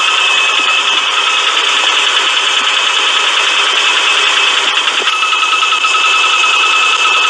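Engine running with the rattling, clacking tick of a loose or failing timing belt tensioner, under a steady high whine.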